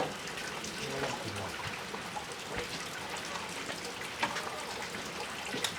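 Water running and splashing in a steady noisy wash, with scattered small drips and clicks.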